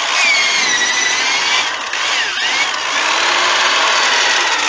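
Electric drill spinning a foam polishing pad while it is washed clean, a steady hiss with a motor whine that dips and climbs back as the speed changes about two seconds in.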